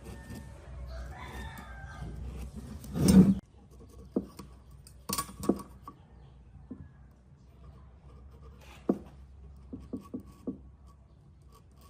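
A bird's call with shifting pitch, then a loud thump about three seconds in, followed by scattered light clicks and taps.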